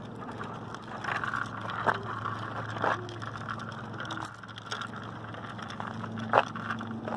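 Child's bicycle with training wheels rattling on pavement as she pushes at the pedals, with several separate clicks and knocks, over a steady low hum.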